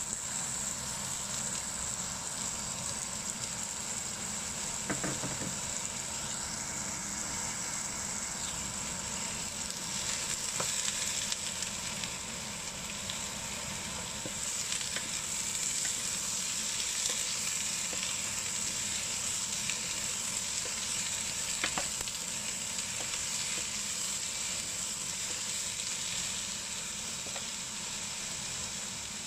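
Celtuce strips sizzling in hot oil in a nonstick pot, a steady frying hiss. A few light knocks come as a wooden spatula stirs them.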